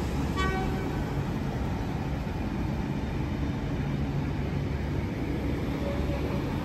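Stainless-steel passenger carriages rolling slowly along a platform: a steady low rumble of wheels and running gear, with a brief high-pitched squeal about half a second in.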